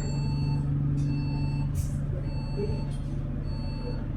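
Electronic warning buzzer on a KMB double-decker bus, beeping about once a second, each beep about half a second long, over the bus's steady low engine hum.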